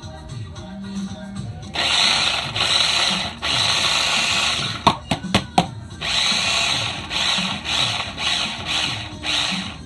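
Small electric food processor running in two bursts of a few seconds, chopping onion, pepper and pimento seasoning, with a few clicks in the short pause between.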